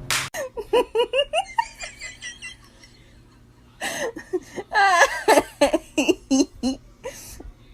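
A person laughing and giggling in quick short bursts, in two bouts; the second bout, starting about four seconds in, is louder.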